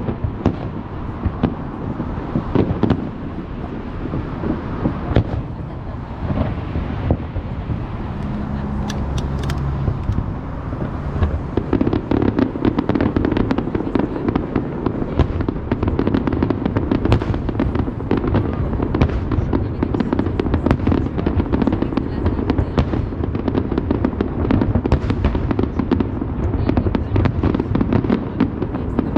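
Fireworks display: shells bursting one after another in quick cracks and booms, with crackling between them. The bursts grow denser and louder a little under halfway through.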